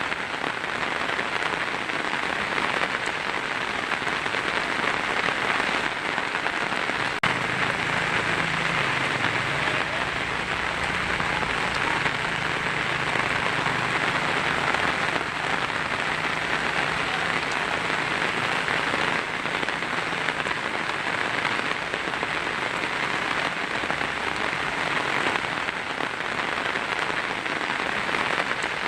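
Heavy rain drumming steadily on a tin roof. A low rumble of thunder runs underneath from about a quarter of the way in and fades after the middle.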